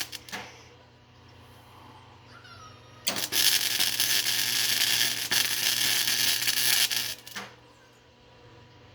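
Flux-core MIG welder arc crackling and sizzling in a single burst of about four seconds, starting about three seconds in and cutting off abruptly, over a faint steady low hum.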